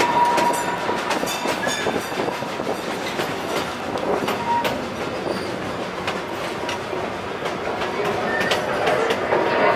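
Open passenger car of a park train rolling along the track: a steady rumble with the wheels clicking over the rail joints.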